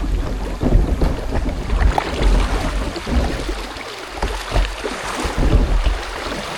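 Kayak being paddled: irregular small splashes and knocks of the paddle in the water and against the hull, with wind rumbling on the microphone.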